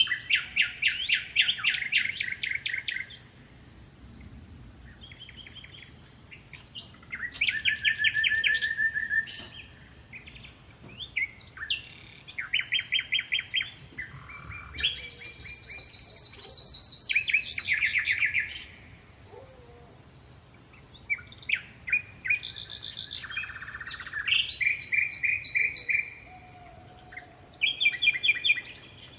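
Songbirds singing: a series of rapid trilled phrases, each lasting one to three seconds with short pauses between, in several different patterns. A faint steady high-pitched tone sounds underneath.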